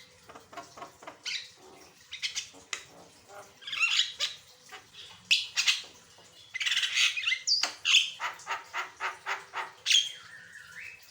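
Javan myna singing a varied, loud run of harsh squawks, clicks and whistled notes, including a quick series of short repeated notes about eight seconds in.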